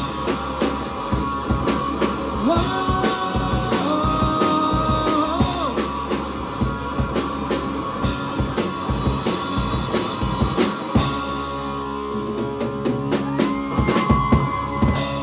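Live rock band playing an instrumental passage of a song: a drum kit keeping a steady beat under guitar holding and bending notes, with bass underneath. Near the end comes a dense cluster of drum and cymbal hits.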